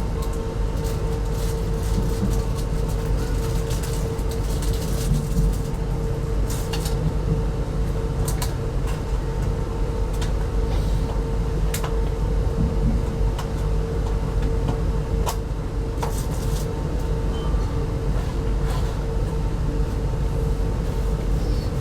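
Inside a China Railway 25T passenger coach running along the line: a steady low rumble from the running gear, with a constant hum and scattered sharp clicks and rattles.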